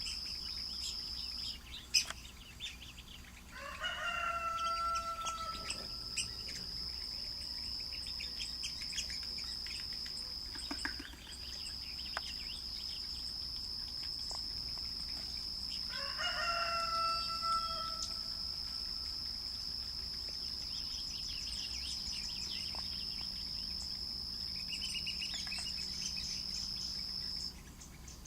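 A large bird gives two long, drawn-out crowing calls, about 4 and 16 seconds in, over a steady high-pitched insect drone that drops out briefly twice and stops near the end.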